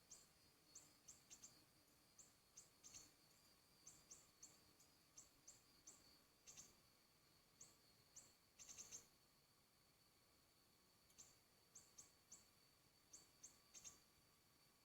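Faint, short high-pitched bird chirps, single or in quick twos and threes, scattered irregularly, with a denser run of chirps about nine seconds in.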